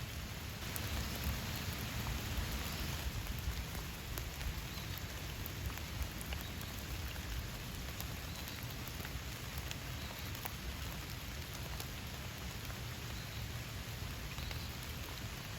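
Steady rain falling, with individual drops ticking out of the hiss; it comes down a little heavier for a couple of seconds about a second in.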